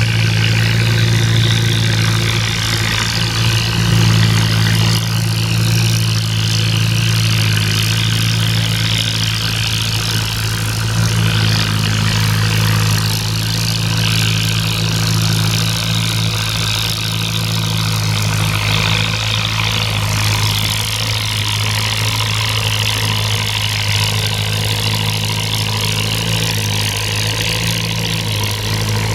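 Antique farm tractor engine running at a steady, unchanging speed, with a low drone throughout.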